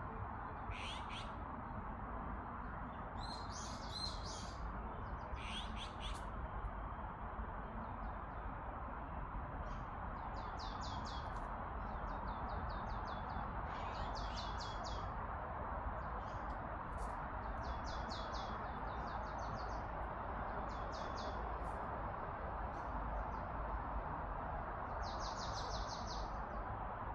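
Birds calling: scattered short runs of quick, high chips and a few single harsher calls, over a steady background rush.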